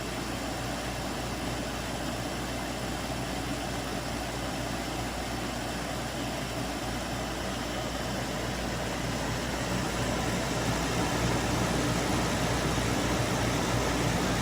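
SereneLife portable air conditioner running: a steady rush of air with a constant low hum underneath.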